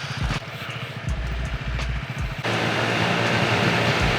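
Motorcycle engine idling with a low, even pulse. About two and a half seconds in, a louder steady sound cuts in abruptly and carries on.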